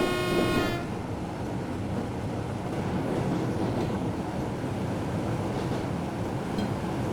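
Train horn blast ending under a second in, followed by the steady rumble of the train running along the track, heard from inside the driver's cab.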